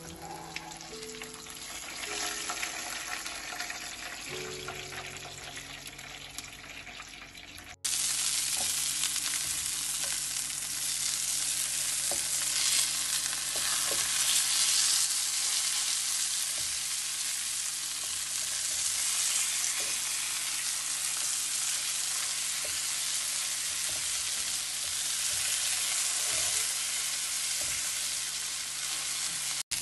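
Minced-meat chapli kababs sizzling and frying in hot oil in a grill pan, with occasional scrapes and taps of a spatula. The sizzle gets much louder after a cut about eight seconds in.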